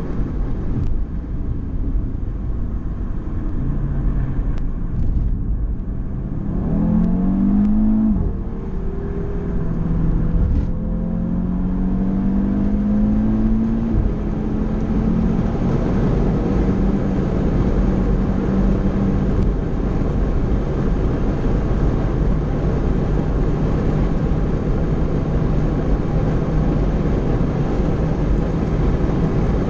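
Car engine under load with road and wind noise, heard from inside the cabin while lapping a race circuit. About seven seconds in the engine note swings up and down sharply and briefly dips, then it runs on steadily.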